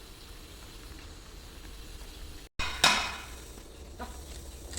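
Steady low background hum, broken by a brief dropout, then a single sharp clank with a short ringing decay, followed by a fainter knock about a second later.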